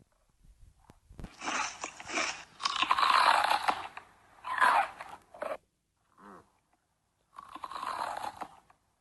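Crunchy chewing and biting close to the microphone, in two long bouts with a short pause between them.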